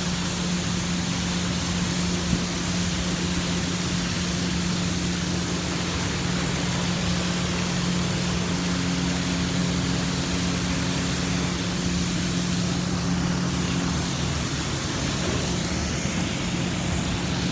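Heavy rain falling steadily, an even rushing hiss, with a steady low hum underneath.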